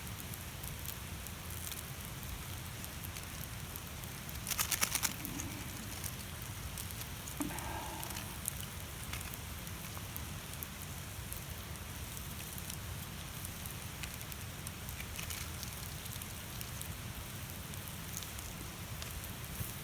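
Steady sizzling hiss with scattered pops and crackles from a campfire cooking setup: a wood fire burning under a steel griddle. About four and a half seconds in comes a brief, quick rattle of clicks, the loudest sound in the stretch.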